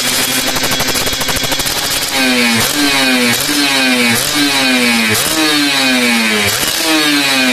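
Kawasaki Ninja R two-stroke single revving through a rebuilt (gutted) exhaust: a steady running note for about two seconds, then repeated quick throttle blips, each sharp jump in pitch falling back down.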